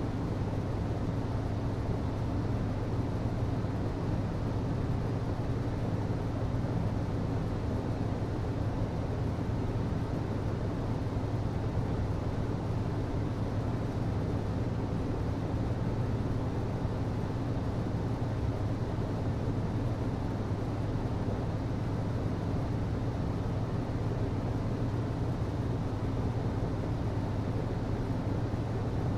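HVAC system running: a steady low hum with an even rush of noise above it, unchanging throughout.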